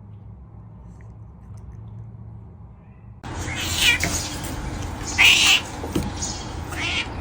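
A faint low hum, then from about three seconds in a kitten meowing: three high-pitched meows.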